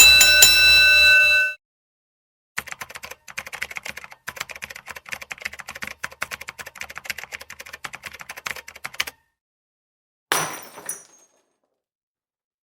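A run of separate sound effects: a bright ringing tone for about a second and a half, then about six seconds of rapid irregular clicking, then a short noisy burst that fades near the end.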